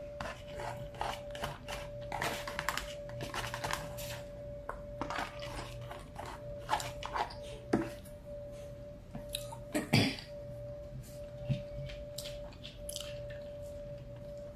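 Close-up eating sounds: chewing and mouth clicks, with light taps of a plastic fork and foam bowl on a foam plate and a sharper knock about ten seconds in, over a steady faint high hum.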